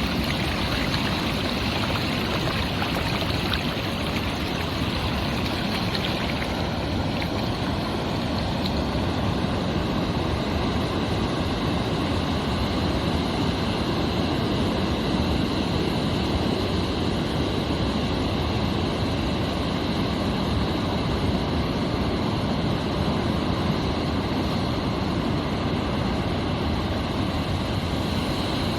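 Ocean waves breaking on a beach: a steady, continuous rush of surf.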